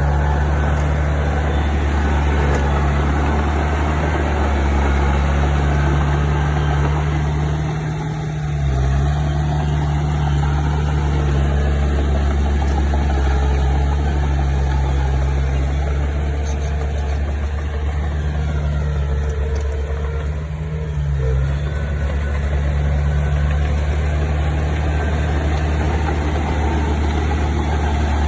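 Diesel engine of a heavy construction machine running steadily under work, its low note dipping briefly about a third of the way in and again about three quarters through.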